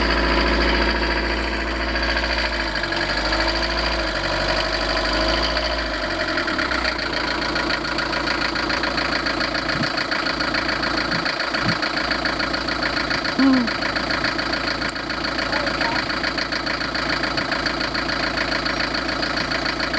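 Van engine idling freshly after a timing belt replacement. Its note shifts in the first few seconds, then settles into a steady idle.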